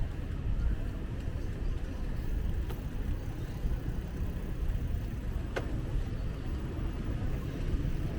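Low, steady rumble of street traffic, with a sharp click about five and a half seconds in.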